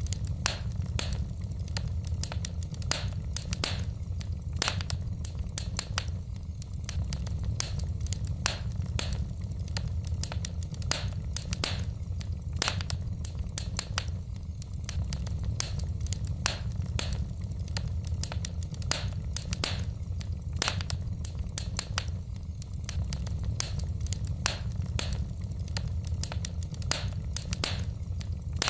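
Wood fire burning in a fireplace: irregular sharp crackles and pops from the burning logs, several a second, over a steady low rumble.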